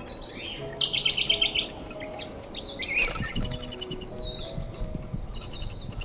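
Birds chirping and trilling, many short high calls in quick runs, over soft background music with held notes.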